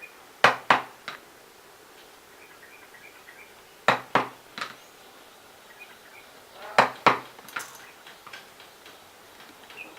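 Sharp clicks or knocks from small hard parts being handled or cut, in three quick groups of two or three a few seconds apart.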